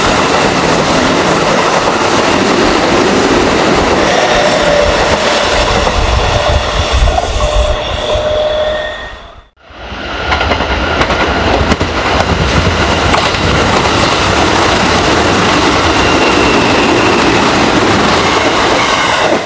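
Kintetsu 3200 series electric train passing at speed, its wheels clattering over the rail joints, with a steady whine over the noise in the first part. The sound drops out briefly about halfway in and a second pass follows.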